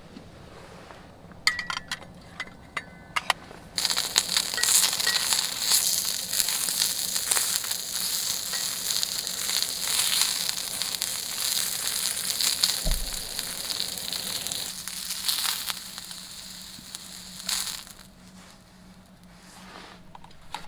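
A few light metal clicks, then meat sizzling loudly and crackling on a hot grill. The sizzling starts suddenly about four seconds in and dies down about three seconds before the end.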